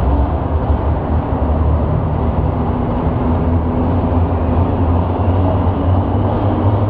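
Engine of a pulling vehicle running steady and loud at the sled-pulling track.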